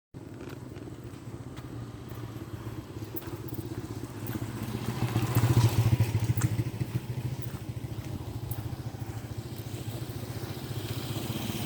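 Small motorcycle engine running steadily, swelling louder about five to six seconds in, then settling back.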